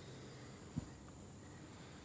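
Quiet room tone with a faint steady low hum and one soft low knock a little under a second in.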